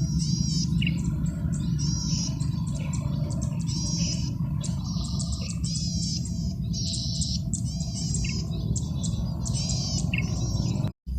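Male golden-headed cisticola singing: high buzzy phrases repeated about once a second, with a short clearer note now and then, over a steady low rumble. The sound cuts out for a moment near the end.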